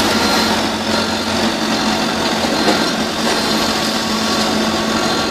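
A machine's engine running steadily under a constant hum, with no change in speed.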